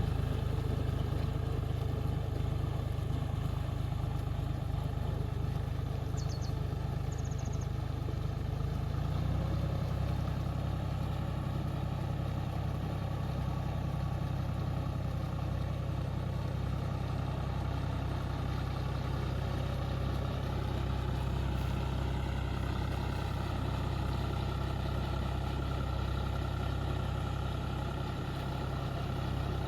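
Tractor engine running steadily, with a change in its note about nine seconds in.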